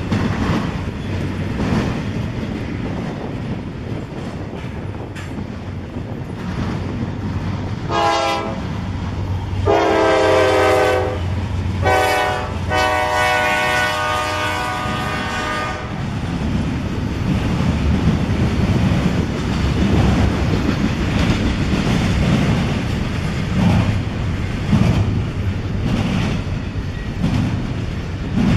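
A freight train rolling past with a steady rumble and wheel clatter on the rails. About eight seconds in, a locomotive air horn sounds four blasts, the last the longest, ending about sixteen seconds in.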